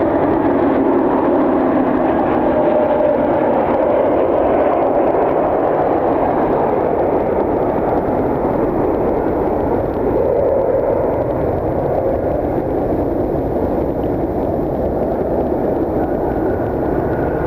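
Jet airliner engines roaring steadily, a loud continuous rumble with a faint wavering whine, as a plane passes on takeoff or landing.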